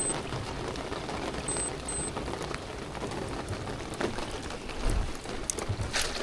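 Steady rain falling around the moored boat, with a few faint clicks and a louder knock near the end.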